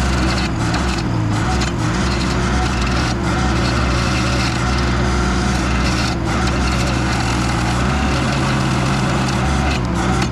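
Mini track loader engine running under load while a stump grinder attachment chews into wood, a loud steady hum under rough grinding noise, with a few brief dips.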